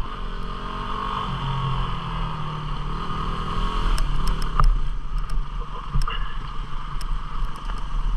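A single-cylinder 250 cc four-stroke dual-sport motorcycle engine runs steadily along a trail. Several sharp knocks and clatters come between about four and seven seconds in.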